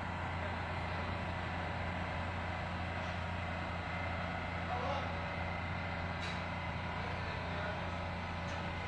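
Ship's engine-room machinery running: a steady drone with a low hum and several constant tones, with a faint click about six seconds in.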